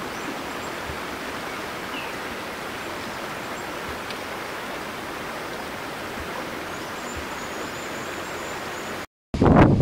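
Shallow river flowing steadily over stones, an even rushing of water. Near the end it cuts off for a moment and a louder gusting noise begins.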